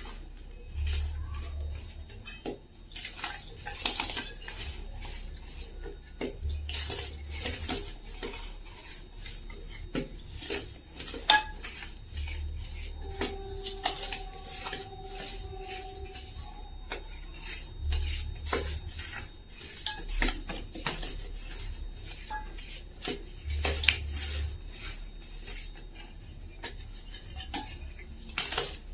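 Irregular sharp clicks, taps and scraping, like hard things knocking against dishes, with a low thud that comes back about every six seconds and a brief steady tone about halfway through.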